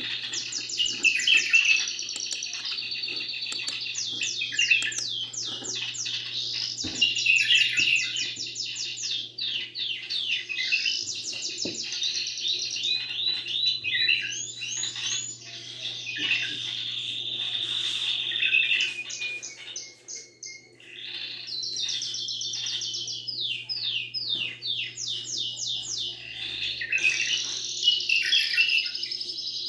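Domestic canary singing a long run of rapid trills and fast repeated notes, with a short break about twenty seconds in. A low steady hum runs underneath.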